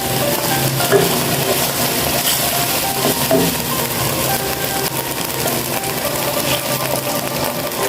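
Food sizzling and crackling in hot oil while it is stirred, with a steady crackle and small clicks throughout.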